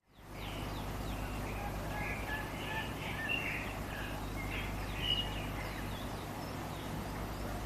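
Several small birds chirping and trilling in short phrases over a steady background hiss and low rumble, fading in at the very start.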